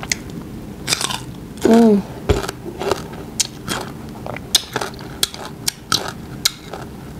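Crisp crunching and chewing of raw green mango eaten with the skin on, a run of sharp crunches and clicks at close range. A short voiced sound from the eater comes a little under two seconds in.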